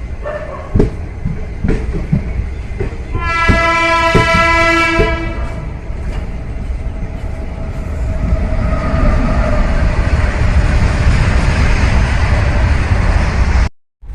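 Train running on rails with a steady low rumble and clicking of the wheels over rail joints. Its horn blows once for about two seconds, about a third of the way in. The rushing noise builds from about halfway, and the sound drops out abruptly just before the end.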